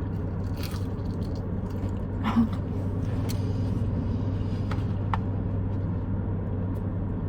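Chewing and crunching on a fried chicken finger, with a few small clicks, over a steady low hum inside a car.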